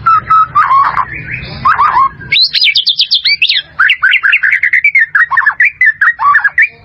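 White-rumped shama singing a loud, varied whistled song: a few lower phrases, then a fast run of high notes about two seconds in, then a long string of quick down-slurred notes.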